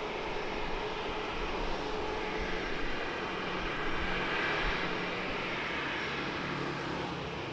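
Jet airliner engine noise, steady, swelling slightly about four to five seconds in.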